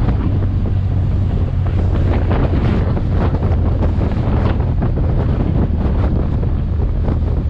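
Wind buffeting the microphone on a moving motorcycle, in constant gusts, over the steady low drone of the engine.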